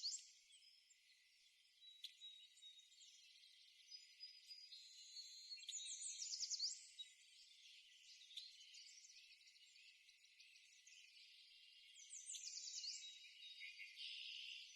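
Faint birds chirping and trilling, with a quick run of notes about six seconds in and again near thirteen seconds.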